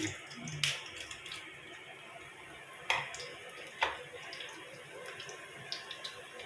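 Breadcrumb-coated bread and egg puffs sizzling steadily in hot ghee in a frying pan, with a few sharp clicks, around three seconds in and near four seconds.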